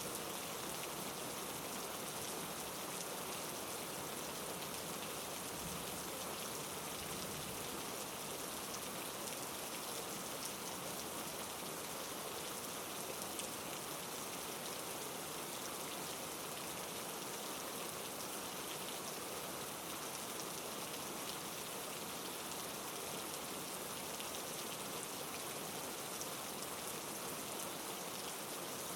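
Heavy rain falling steadily: a dense, even hiss with the fine ticking of individual drops.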